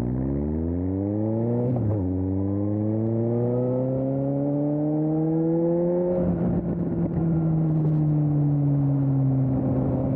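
2020 Suzuki GSX-S750's inline-four engine through an aftermarket Storm exhaust, accelerating hard: the revs climb quickly, drop with a shift about two seconds in, then climb more slowly in the next gear. About six seconds in the throttle eases and the engine settles to a steady, slowly falling cruise note.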